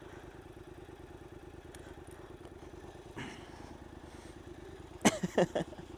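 Motorcycle engine idling steadily, with a short scrape a little after three seconds and a quick run of sharp clicks and knocks about five seconds in.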